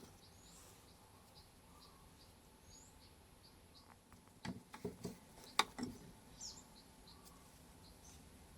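Faint bird chirps in the background, with a short cluster of sharp clicks and knocks about halfway through, the loudest near the middle.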